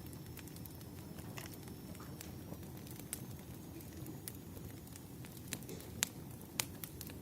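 Wood fire crackling: a low steady rumble of flames with irregular sharp pops, the loudest pops coming a little after halfway through.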